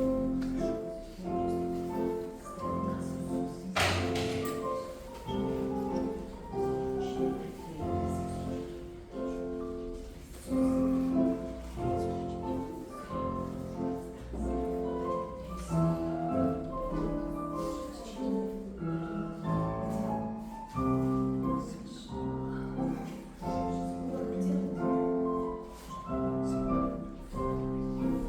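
Classical piano music played as ballet class accompaniment, a continuous run of notes in an even rhythm. A single sharp knock sounds about four seconds in.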